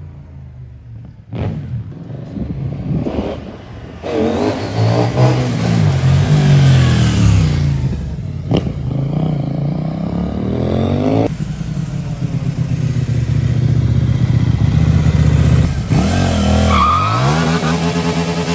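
CFMOTO 800NK motorcycle's parallel-twin engine revving as the bike accelerates, its pitch rising and falling several times through the throttle and gear changes. Its owners call the stock exhaust note good.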